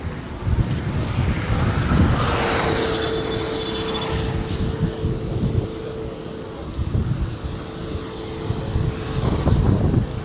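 A motor vehicle passes by about a second or two in, its sound falling in pitch as it goes. A steady droning tone then holds until near the end, over uneven low rumbling.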